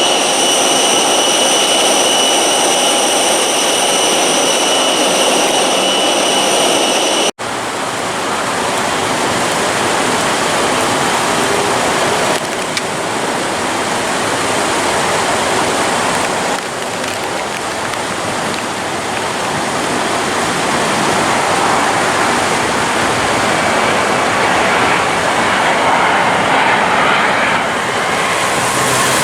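Jet airliner engines: a steady high-pitched whine over a roar, then, after an abrupt cut about seven seconds in, a steady broad roar of jet engine noise.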